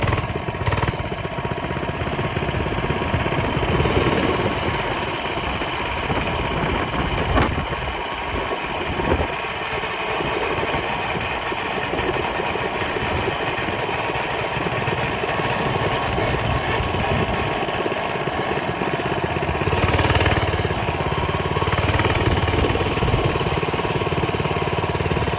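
Coleman mini bike's small single-cylinder engine running steadily as the bike is ridden along a street.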